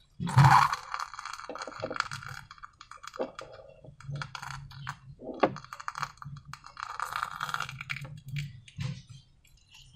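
Slime being squished and pulled by hand, making wet, sticky clicks and crackles, with a louder squelch about half a second in.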